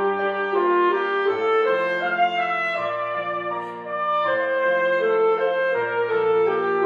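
Saxophone playing a melody of sustained notes over piano accompaniment.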